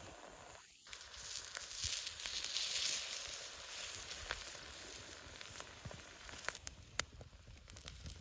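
Campfire cooking: a steady sizzling hiss with scattered sharp crackles, starting abruptly about a second in and easing off after about six seconds.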